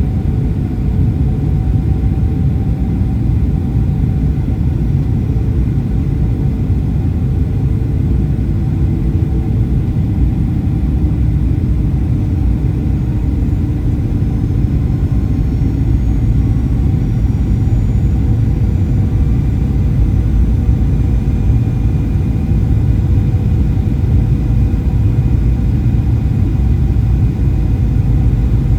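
Steady cabin noise inside a Boeing 737-800: a dense low rumble from its CFM56 engines and the airflow or rolling, with faint high whines drifting in pitch around the middle.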